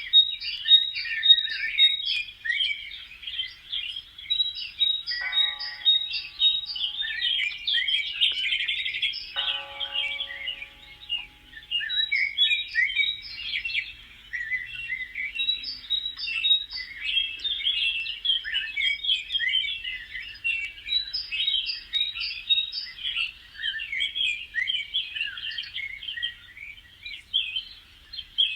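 Many small birds chirping and twittering at once in a dense, continuous chorus. Two lower, steady-pitched calls cut through about five and nine seconds in.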